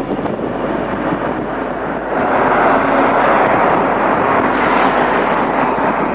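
Jet airliner's engines on landing approach, a steady loud noise that grows louder about two seconds in.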